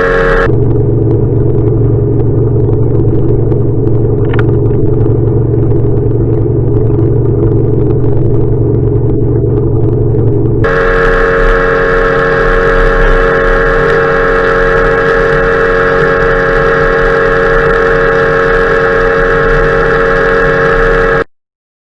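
Boat motor running at a steady speed, with an abrupt change in its pitch and tone about ten seconds in. The sound cuts off suddenly near the end.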